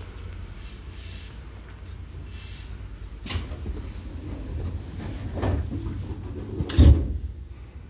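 Low rumble inside a Seibu 2000 series train car, with a sharp knock about three seconds in and a loud, heavy thump near the end.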